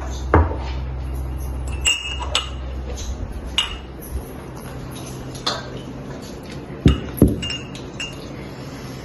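Dishes, cups and spoons clinking and knocking as food is served out onto plates: a dozen or so irregular knocks and ringing clinks, the loudest about half a second in and a pair close together near the seven-second mark. A low hum underneath stops about two seconds in.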